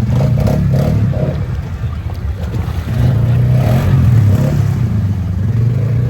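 ATV engine running, getting louder about halfway through as it picks up revs.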